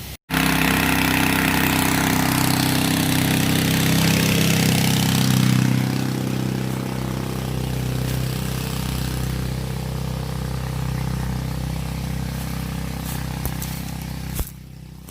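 Small pump engine on a water buffalo tank trailer running steadily, with the hiss of water spraying from the hose. The sound drops out briefly just after the start, and near the end it falls off sharply to a quieter engine hum.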